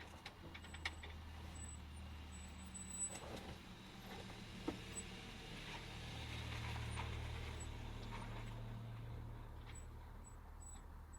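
A low motor hum that swells to its loudest about seven seconds in and then slowly fades, with a few light clicks.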